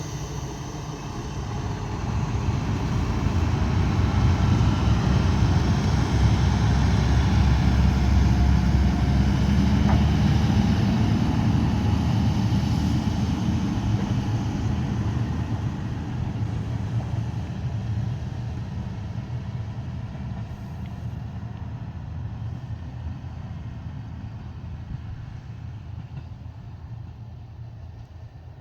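Shimabara Railway diesel railcar running past, its engine and wheels making a low rumble that builds over the first few seconds and then slowly fades away as the train recedes.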